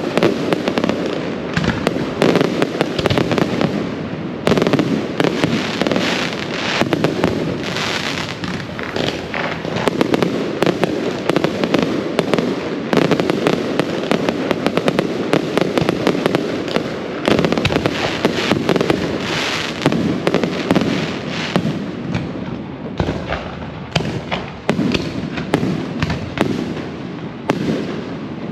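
A dense, unbroken barrage of fireworks and firecrackers: rapid bangs and crackles overlapping throughout, with louder clusters of bangs every few seconds.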